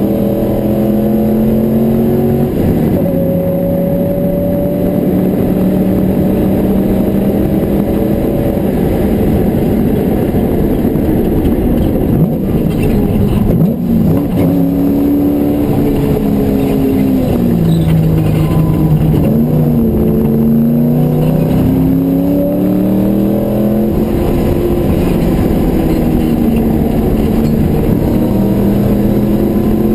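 Porsche 928's V8 engine under hard acceleration, heard from inside the cabin. Revs run high, then drop through downshifts with quick throttle blips under braking about halfway through, and climb steadily again over the last ten seconds.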